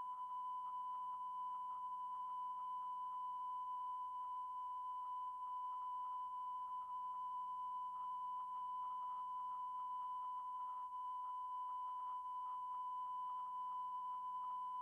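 A steady electronic test tone: one unbroken, unwavering high beep with faint crackle from the videotape's audio track beneath it.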